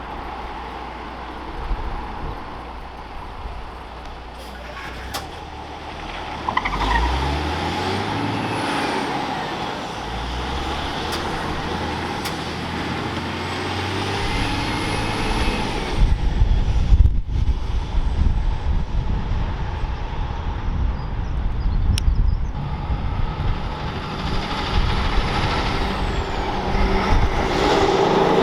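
Heavy diesel trucks driving past, an engine pulling up through the gears, with a thin high whine gliding up and down.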